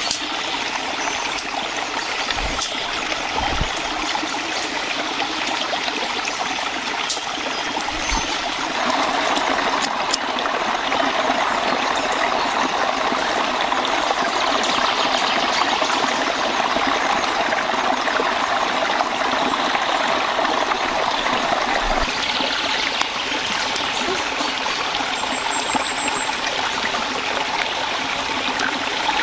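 Stream water running steadily, fuller and a little louder from about nine seconds in until about twenty-two seconds in.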